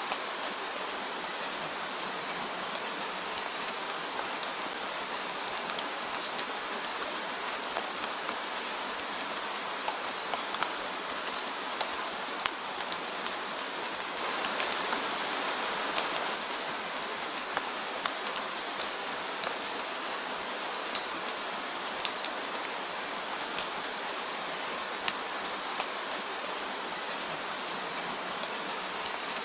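Steady rain falling, an even hiss with scattered sharp drip clicks, swelling a little heavier about halfway through.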